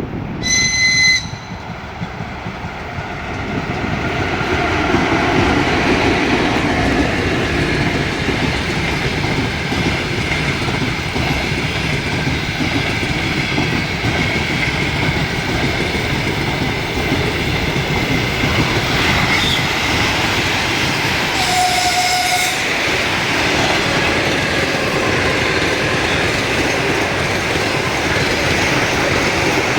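An electric train passes close by, its wheels clattering over the rail joints and squealing steadily. A short horn blast sounds near the start and another about two-thirds of the way through.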